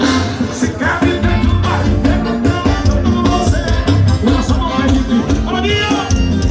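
Loud live forró music with a male singer over a steady bass beat.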